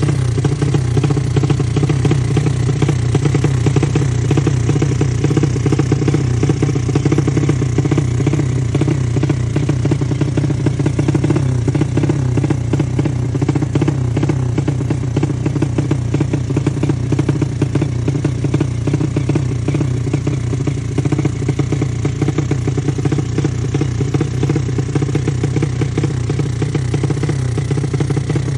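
Yamaha Jupiter Z motorcycle's single-cylinder four-stroke engine, bored out to 200cc for drag racing, idling steadily and loudly without being revved.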